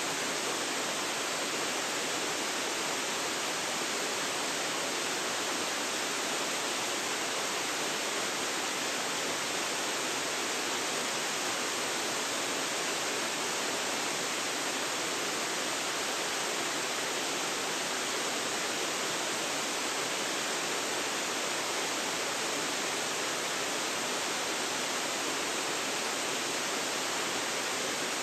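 Waterfall pouring steadily: a constant, even rush of falling water, more hiss than rumble, with no breaks or changes.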